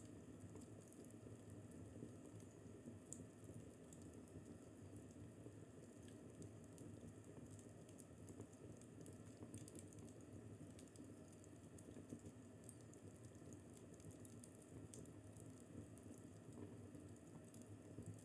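Faint wood fire crackling in a fireplace: many small irregular snaps and pops over a steady low rumble.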